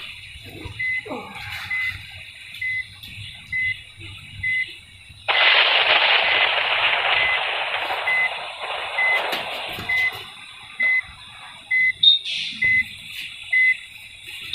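A vehicle's reversing alarm beeping steadily, a short high tone about once a second. About five seconds in a loud hiss starts suddenly and fades away over a few seconds.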